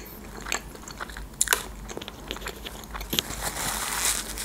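Close-miked chewing of a mouthful of grilled chicken: irregular small wet clicks and crackles from the mouth, busier near the end.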